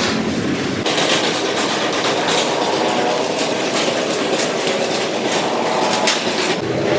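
Factory machinery running with a continuous rapid clattering and rattling.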